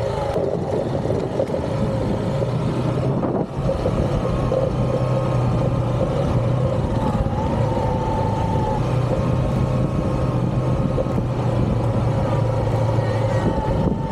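Single-cylinder Honda XR150 motorcycle engine running steadily, with a brief drop about three and a half seconds in.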